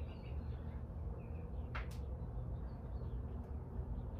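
Birds chirping faintly over a steady low rumble, with one louder falling call near the middle and a short sharp click right after it.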